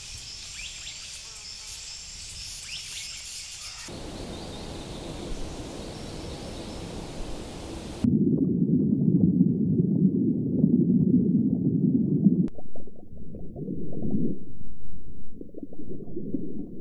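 Soft outdoor nature ambience with faint high chirps. About eight seconds in, it changes abruptly to muffled underwater sound: a dense low rumble that breaks into uneven surges toward the end.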